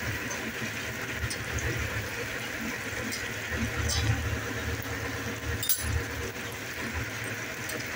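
Chopped onion, tomato and green chilli sizzling steadily in hot oil in an aluminium kadai for a tadka, with a low steady rumble underneath and a few faint clicks.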